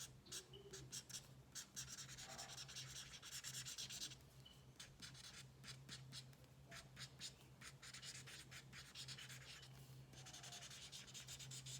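Faint scratchy colouring strokes of a drawing tool on paper, rapid back-and-forth scribbling in runs with brief pauses, over a low steady hum.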